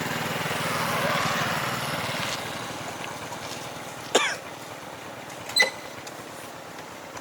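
A motor engine hum swells and fades over the first two seconds or so. Then come two short, sharp, high-pitched sounds about a second and a half apart, the first rising quickly in pitch.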